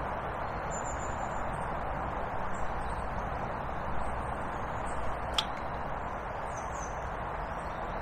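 Small birds chirping faintly and briefly several times over a steady rushing background noise, with one sharp click about five seconds in.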